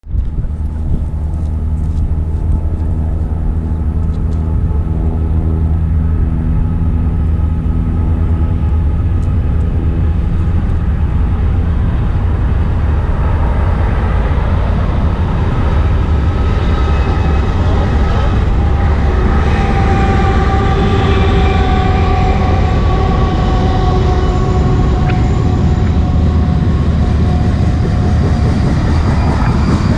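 A BNSF freight train's GE diesel locomotives passing with a steady engine drone. After about ten seconds the drone gives way to the rolling noise of the cars, with wavering high-pitched tones over it, like wheels squealing on the rails.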